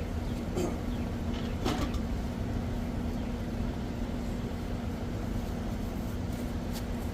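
Steady electric hum of an outdoor air-conditioner condensing unit running, over a low rushing noise, with two brief knocks in the first two seconds.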